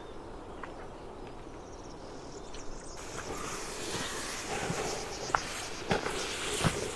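Faint insects chirring, then, from about three seconds in, footsteps walking on an outdoor path, with a scattering of sharp crunches and clicks from the steps.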